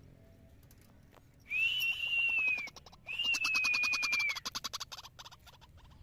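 Two long calls from a bird, each a steady high note with a fast buzzing pulse lasting about a second, the second starting just after the first ends, followed by a trail of fainter pulses.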